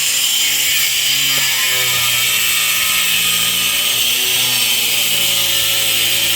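Steady mechanical noise running without a break, a constant hiss with faint wavering tones underneath.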